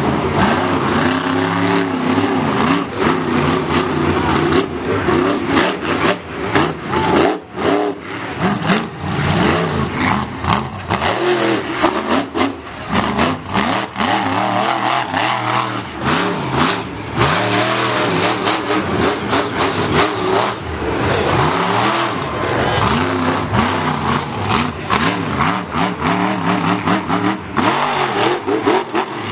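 Loud motor-racing engines revving up and down again and again, with frequent sharp cracks.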